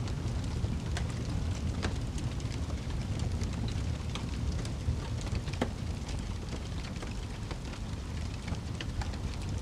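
Wood fire burning in a fireplace: a steady low rumble of the flames with frequent irregular crackles and pops from the logs, a few sharper pops standing out.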